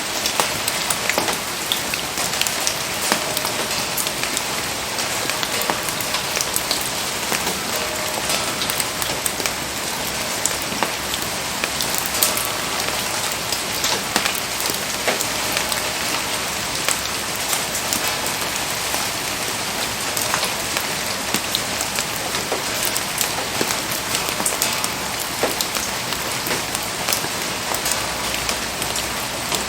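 Steady rain falling and pattering on surfaces, with a dense scatter of sharp drop ticks throughout.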